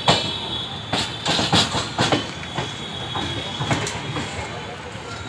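Passenger train's wheels clattering over the rail joints, with irregular sharp knocks over a low rumble and a thin high wheel squeal.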